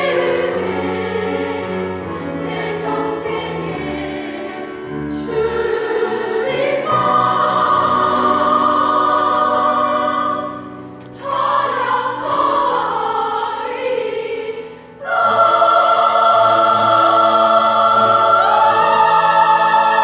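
A church vocal ensemble singing a gospel hymn of thanks in harmony, with phrases broken by two short breaths and a long held closing chord from about three-quarters of the way in.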